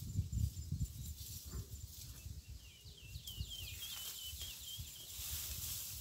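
A small bird gives a quick run of about ten high, short chirps in the middle, over a low, irregular rumble; a faint high hiss rises near the end.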